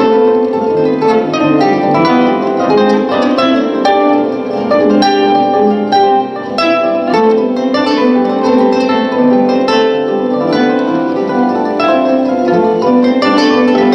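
Solo instrumental music on a plucked string instrument, played as a continuous, busy run of notes.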